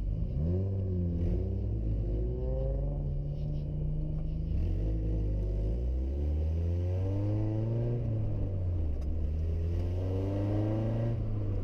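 Car engine accelerating under load, its pitch climbing and then dropping back several times, as through gear changes.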